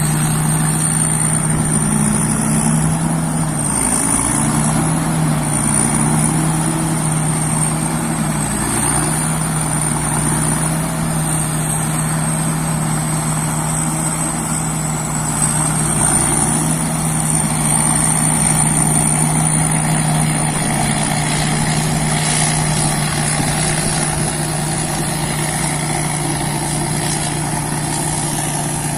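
Rice combine harvester running steadily under load, its engine humming low with a thin high whine above that wavers in pitch and then holds steady.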